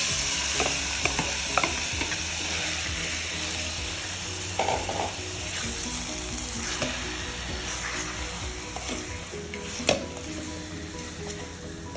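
Marinated chicken sizzling in hot oil in a kadai, loudest as it goes in at the start and slowly settling, while a spatula stirs it with a few sharp knocks against the pan.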